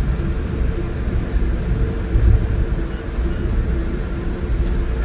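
Metro-North commuter train running along the track, heard from inside the passenger car: a steady low rumble with faint steady tones above it, and a brief click near the end.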